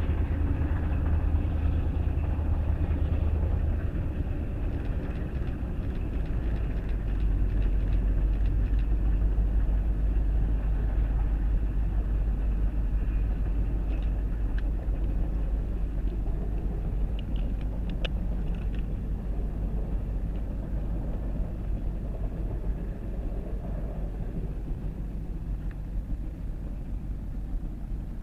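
A train rolling by behind steam locomotive 4960: a steady low rumble that slowly fades, with a few faint clicks in the middle.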